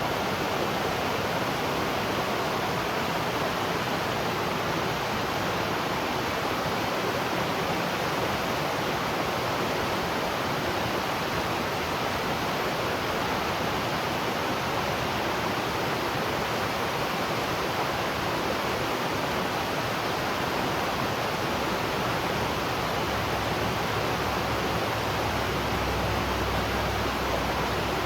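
Waterfall: a steady rush of falling water, even and unbroken, with a deeper low rumble coming in near the end.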